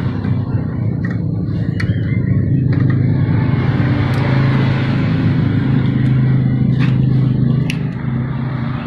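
An engine running steadily at a low, even pitch that rises a little about two and a half seconds in, with a few sharp metallic clicks over it.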